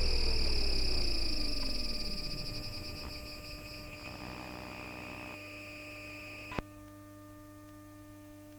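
Bombardier Flexity Outlook tram's MITRAC IGBT VVVF traction inverter and motors slowing to a stop: the motor whine falls steadily in pitch as the rumble fades, while high steady inverter tones carry on. About six and a half seconds in they cut off with a click, leaving a low hum.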